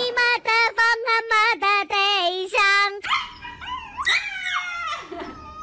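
A string of short sung notes with a slightly warbling pitch, cutting off about three seconds in; then a Shiba Inu yelping and howling in protest, several rising-and-falling cries, as its claws are being clipped.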